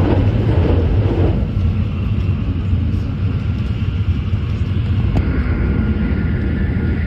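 Shinkansen high-speed train running, a steady low rumble, with a faint high whine coming in about five seconds in.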